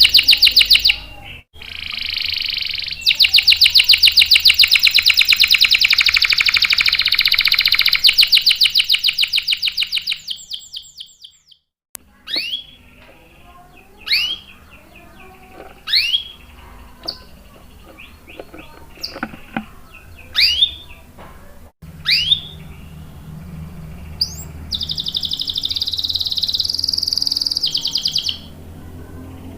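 Domestic canary singing: long, fast rolled trills that fade out, then a run of single sharp chirps, then another burst of trilling song near the end.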